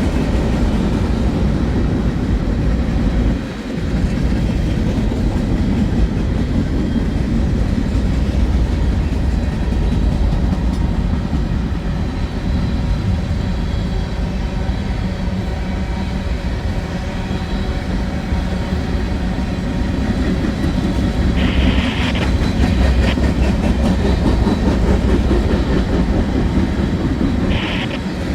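Freight train rolling past, a steady loud noise of wheels on rail, with a brief dip about three seconds in and two short higher-pitched sounds near the end.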